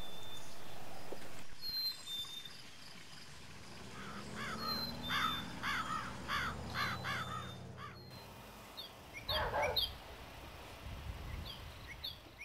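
Outdoor bird ambience: a run of repeated harsh bird calls, about one and a half a second, starting about four seconds in, then two louder harsh calls a little later, with brief high chirps from small birds throughout. A steady noise at the start cuts off about a second and a half in.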